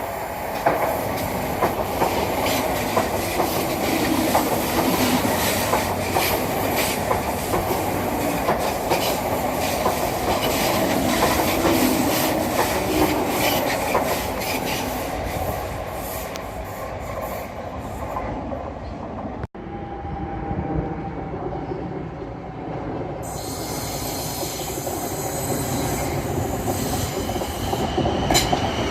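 Train running through on the rails: a steady rumble with rapid clatter from the wheels over rail joints and points, and some wheel squeal. The sound drops out briefly about two-thirds of the way through, then carries on.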